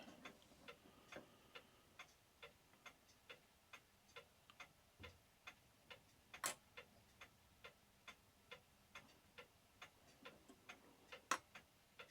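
Herschede clock movement ticking faintly and evenly, about two to three ticks a second, with a few louder sharp clicks now and then.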